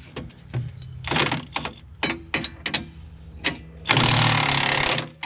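Metal clinks and knocks of a wrench working on the finish mower's bolts, with a low steady hum underneath. A loud rushing noise lasts about a second near the end.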